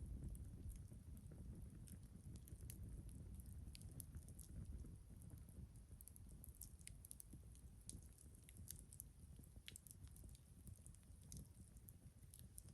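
Campfire crackling faintly: scattered, irregular sharp snaps and pops of burning wood over a low rumble.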